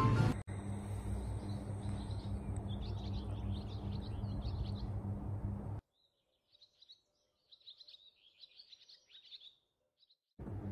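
Small birds chirping: a string of short, high chirps, over a low steady hum that drops out for about four seconds in the middle while the chirping goes on.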